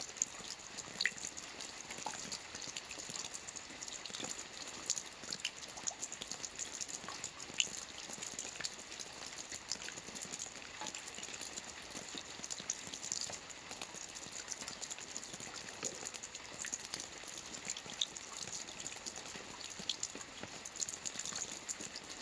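Soft rain falling on a roof: a steady patter of light drops with many small, irregular ticks.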